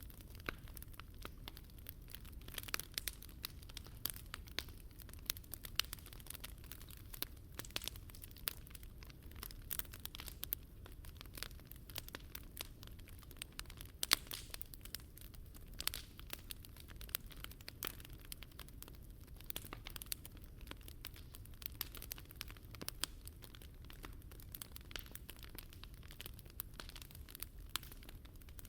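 Wood fire burning in a Picogrill fire pit: dense, irregular crackling of burning wood with a few louder pops, over a low steady rumble.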